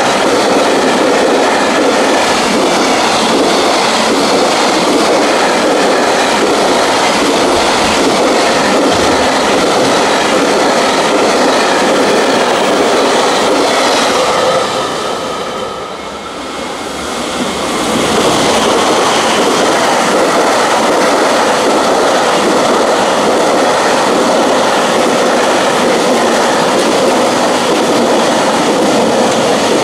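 Freight container train passing close at speed, its wagons' wheels clattering steadily over the rail joints. About halfway through the sound fades for a couple of seconds, then the rumble of a passing train returns at full strength.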